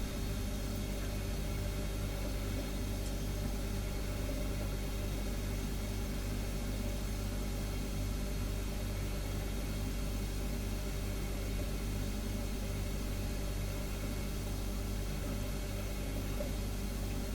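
Refrigerator humming steadily: a low, even hum of several steady tones with a light hiss over it, never changing.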